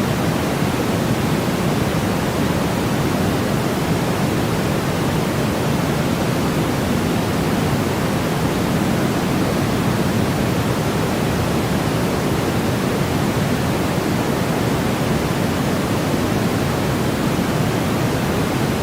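Steady white noise for infant sleep, shaped like pink noise: a constant, even hiss that is strongest in the low-middle range, with no changes or breaks.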